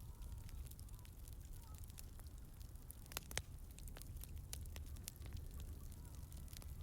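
Campfire crackling: scattered irregular pops, with two sharper ones about three seconds in, over a low steady rumble.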